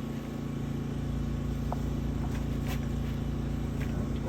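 Sewer water jetter's engine and pump running steadily, a constant low drone, with a few faint clicks over it.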